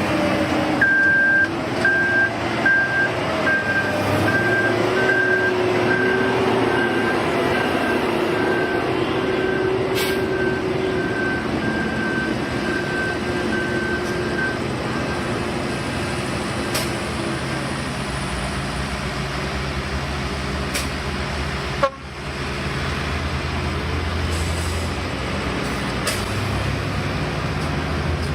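Heavy construction machine engine running, with a reversing alarm beeping at a steady pitch, about one and a half beeps a second, until about halfway through. After a brief break about 22 s in, another machine's engine runs steadily.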